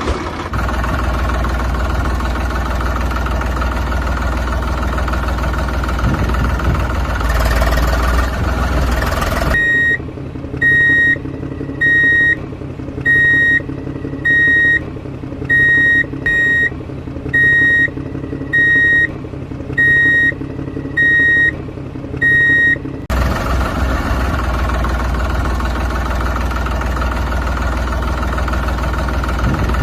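A vehicle engine runs steadily. For about thirteen seconds in the middle it gives way to a lower drone and a reversing alarm beeping about once a second, then the engine sound returns.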